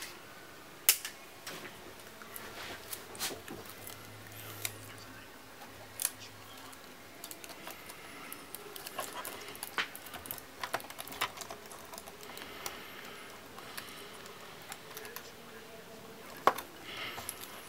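Irregular small clicks and taps of laptop parts and tools being handled. A sharp click comes about a second in and another near the end.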